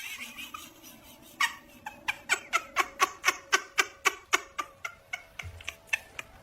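An animal, apparently a pet, making a rapid run of short, sharp calls, about four a second, that stops shortly before the end.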